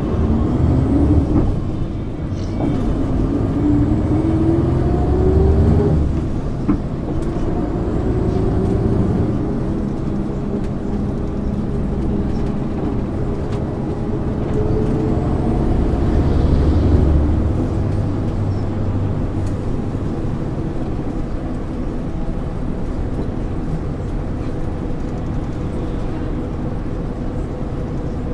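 MAN ÜL 353 interurban bus's diesel engine heard on board while the bus accelerates. The engine note rises, drops about six seconds in at a gear change, climbs again more slowly, and then holds steady at cruising speed.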